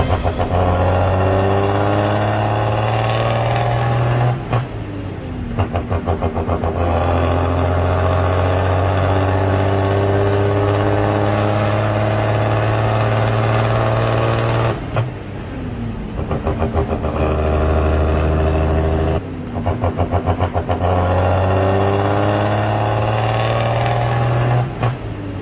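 Heavy vehicle engine sound running steadily with sliding pitch, cut about four times by sudden drops into a quick chugging, like an engine falling back to idle and picking up again.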